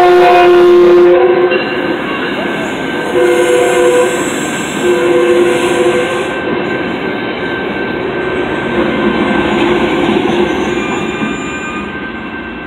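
Metrolink commuter train passing close by at speed: its horn sounds a long blast that ends about a second in, then two shorter blasts around three and five seconds in. Between and after the blasts come the steady rumble and wheel clatter of the bilevel coaches, fading a little near the end.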